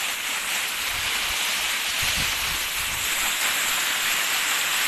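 Waterfall's water falling and splashing steadily, an even rushing noise that does not change.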